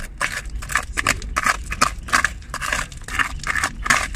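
A hand tool scraping and chipping at hardened concrete and gravel debris in quick, uneven strokes, about three a second.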